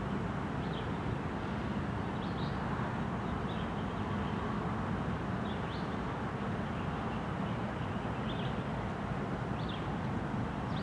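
Norfolk Southern freight train's gondolas and boxcars rolling past on the track: a steady low rumble, with short high chirps every second or two.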